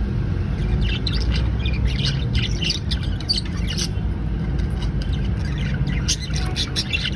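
Budgerigars chirping and squawking in many short, rapid calls over a steady low rumble.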